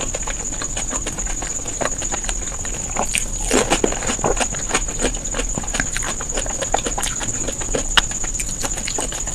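Close-miked eating: a person chewing and biting rapidly, with quick irregular wet clicks and mouth sounds, thickest about three and a half seconds in, over a steady high-pitched whine.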